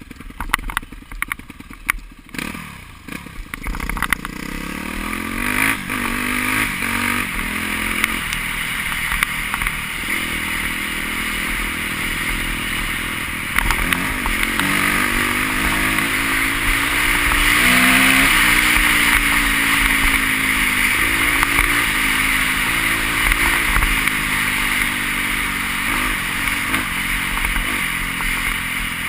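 Motocross bikes racing, several engines revving up and down as they shift through the gears. They grow louder to a peak about two-thirds of the way through, then ease off. There is some clatter in the first few seconds.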